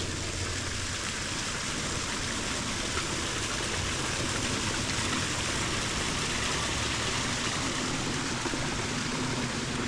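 Steady rushing hiss of running water, such as a stream or runoff channel, with no breaks or changes.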